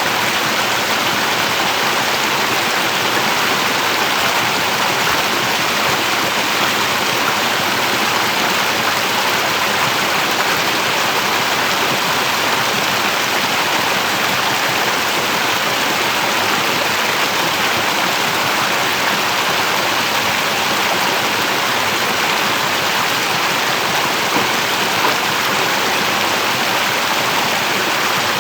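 Steady rush of running or spraying water, an even hiss without breaks.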